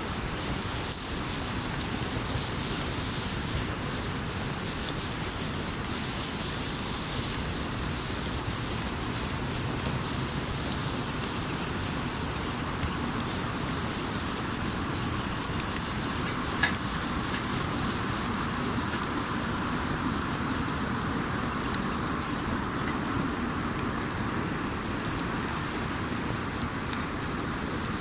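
Wood campfire burning with a steady hiss and scattered small crackles, and one sharper pop a little past halfway.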